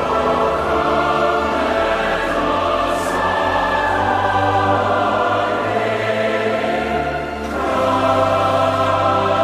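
Choral music: a choir singing sustained chords over a low bass note, the harmony changing near the start and again about three-quarters of the way through.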